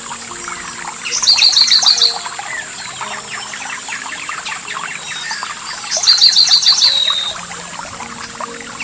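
A songbird sings the same short phrase of about eight rapid repeated high notes twice, about one second in and again about six seconds in, over other birds' scattered chirps and the steady wash of running water. A steady high whine sits under it all.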